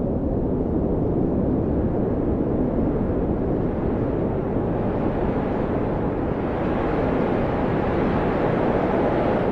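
Blizzard wind blowing hard: a steady low rush with a faint howling whistle that rises slowly in pitch over the last few seconds.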